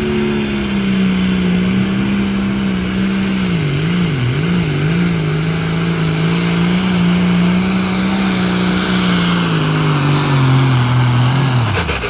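John Deere pulling tractor's engine running at full throttle under load as it drags the sled. Its pitch wavers about four seconds in, sags lower near the end, then drops away sharply as the throttle is cut.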